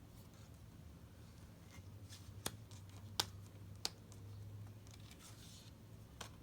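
Three light clicks about two-thirds of a second apart over a low steady room hum, from tarot cards being handled on a table.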